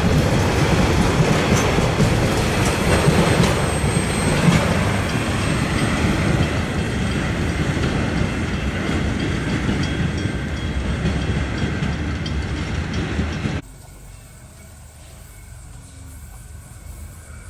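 Bauxite freight train rolling past, its wagons' wheels clattering over the rails. It cuts off abruptly near the end to a much quieter steady hum.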